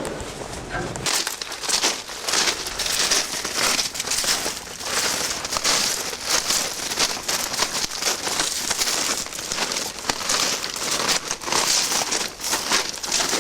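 Aerosol spray-paint can hissing in a run of short bursts of uneven length, starting about a second in.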